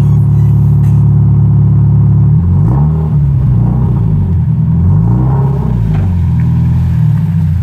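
Scion FR-S's 2.0-litre flat-four engine idling, then revved up and let fall back several times from about two seconds in.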